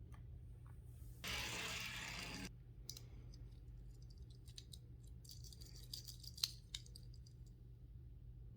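Toy-car packaging being handled and opened: a rasping tear or scrape lasting about a second, then a scatter of small plastic clicks and taps with one sharper click.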